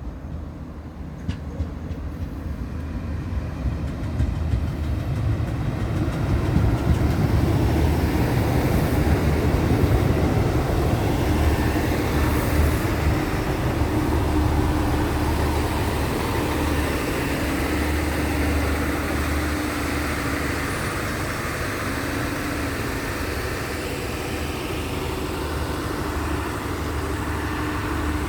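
Northern Ireland Railways diesel multiple unit coming into the station. It gets louder over the first several seconds, then settles into a steady engine hum as it stands at the platform.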